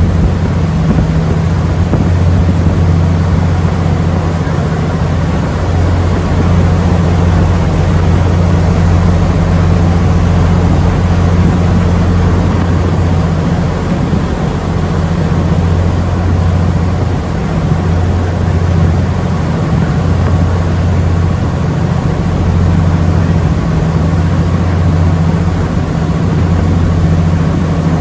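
Ferry New Kasaoka's diesel engines running steadily underway: a constant low drone with a rushing wash of noise above it.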